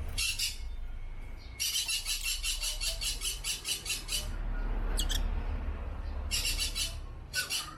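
Lovebirds chattering in bursts of shrill, rapid chirps. The longest burst is a fast series of about eight chirps a second lasting over two seconds; shorter bursts come near the start and near the end. A low, steady rumble runs underneath.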